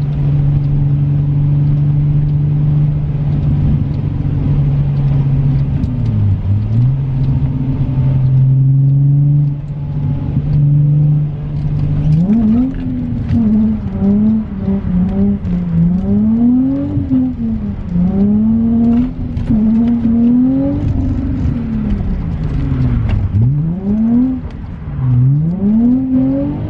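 Car engine holding steady revs for the first dozen seconds, then revving up and down over and over, the pitch rising and falling every couple of seconds as the car is thrown through corners.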